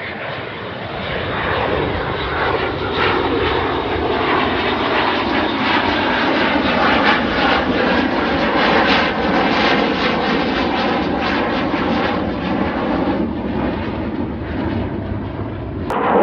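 Aircraft engines roaring during an airshow flypast, swelling to their loudest around the middle and easing off slightly afterwards, with a fluttering rumble. The sound changes abruptly just before the end.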